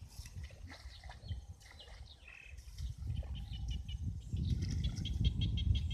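Small birds chirping in open country, with a quick run of repeated high chirps near the end. Under them is a low, irregular rumble that gets louder about four seconds in.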